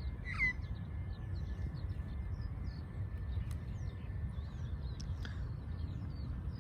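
Birds chirping outdoors over a steady low rumble, with two clearer downward-sliding calls, one about half a second in and another about five seconds in.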